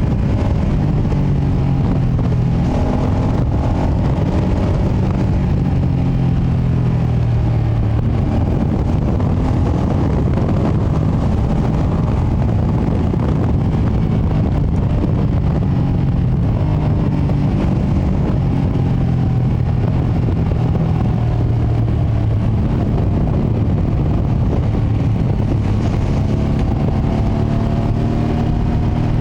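2025 Ducati Panigale V2S on its stock exhaust running under way, its 890 cc twin's note rising and falling as speed changes, under a heavy haze of wind and road noise.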